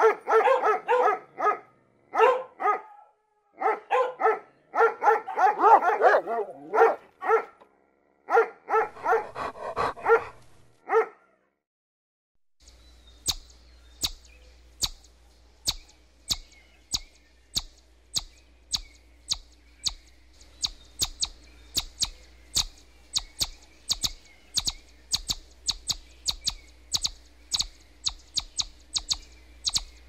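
A dog barks in short, rapid bursts for about the first eleven seconds. After a brief pause, palm squirrels take over with a long, even run of sharp, high chirps, about two to three a second.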